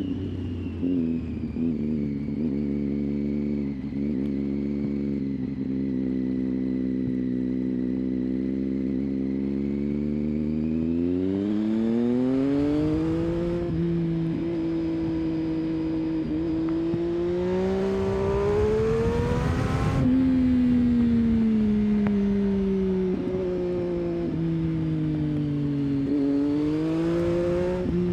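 Triumph Street Triple's 675 cc inline-three engine pulling through curves: it runs steadily, then the revs climb about eleven seconds in and climb again before dropping suddenly about twenty seconds in. The revs then sink slowly, with a short rise near the end.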